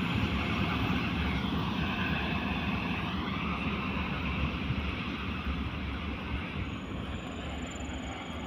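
Container freight train rolling away along the track, its wagons' wheels rumbling on the rails as a steady noise that slowly fades.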